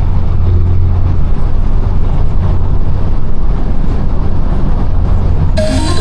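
Straight-piped exhaust of a tuned BMW 428i's turbocharged four-cylinder, droning loudly at a steady pitch.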